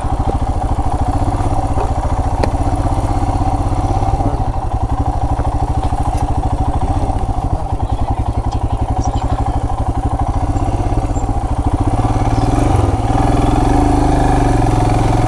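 Royal Enfield Himalayan's single-cylinder engine running steadily with an even firing beat while the bike is ridden slowly on a dirt track, getting a little louder from about twelve seconds in.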